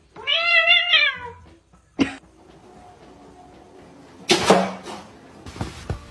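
A cat's drawn-out meow, about a second long with a wavering pitch, near the start. A sharp click follows about two seconds in, and a louder half-second rush of noise comes past the middle.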